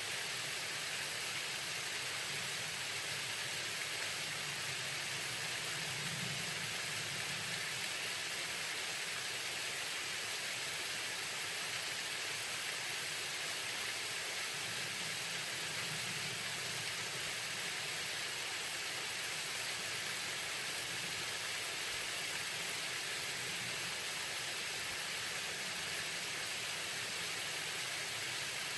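Waterfall pouring steadily: an even, unbroken hiss of falling water, strongest in the high range, over a faint low rumble.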